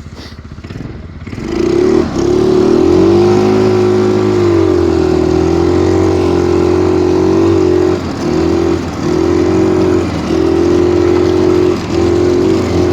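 Stels Kapitan snowmobile engine, quieter at first, then revving up hard about a second and a half in and holding high revs, pulling under load through deep snow. The pitch wavers, and the revs dip briefly a few times near the end.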